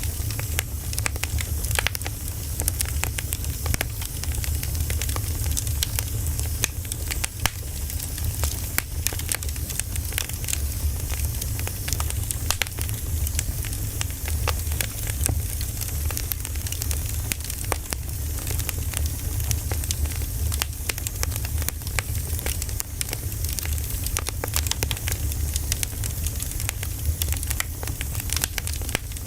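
Burning firewood crackling, with frequent sharp pops over a steady low rumble.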